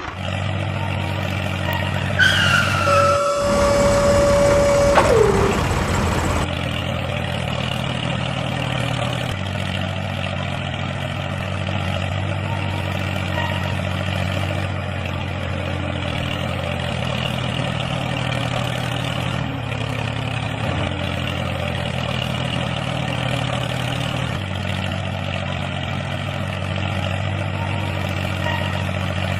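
Small engine of a DIY mini tractor running steadily at an even speed. A few seconds in there is a louder, noisier stretch of about four seconds with a held tone and falling tones in it.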